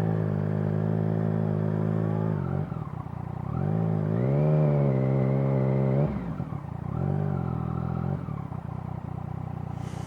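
Yamaha FZ-09's inline three-cylinder engine pulling away three times in low gear and rolling off, its pitch rising, holding and then falling each time, as in stop-and-go traffic.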